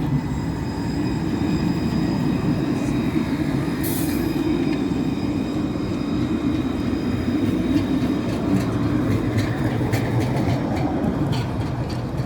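Tram running along its track: a steady rumble of wheels on rail with a faint, thin high whine, and a few clicks near the end.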